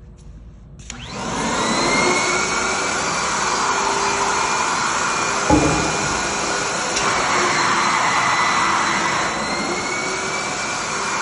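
The blower of an MQuip Blizzard high-airflow vacuum lifter starting up about a second in, its whine climbing in pitch as it spools up into a loud steady rush of air. A sharp thump about five and a half seconds in; later the whine dips and climbs again.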